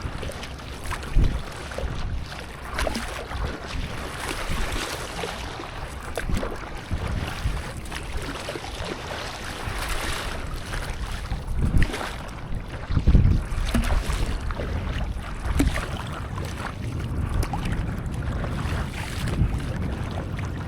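Water splashing and lapping around a stand-up paddleboard, with wind gusting on the microphone and a few louder rushes about a second in and around twelve to thirteen seconds in.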